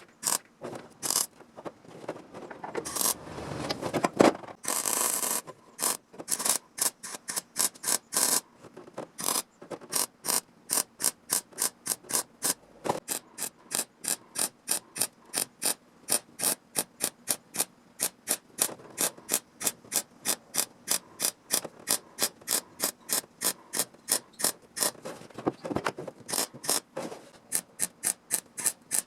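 Hand tool working metal in quick, even strokes, about three a second, after a few slower, longer scrapes in the first seconds.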